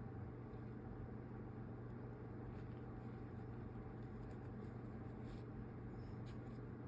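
Steady low hum of the room, with a few faint light clicks and rustles from hand-sewing a doll's nose with needle and thread.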